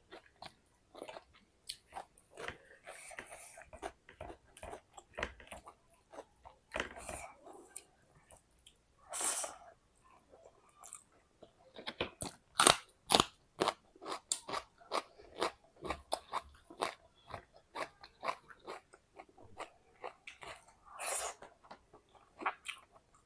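Close-up chewing and crunching of crisp food, many sharp crunches in quick succession, densest and loudest around the middle, with a few longer hissing noises between bites.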